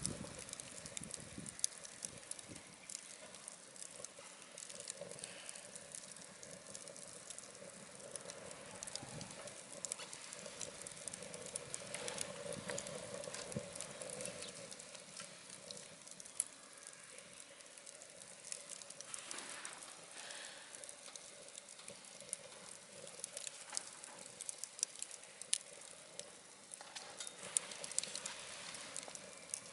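Wood fire crackling in a wood-burning stove: scattered sharp pops and small snaps over a faint, steady hiss of the burning wood.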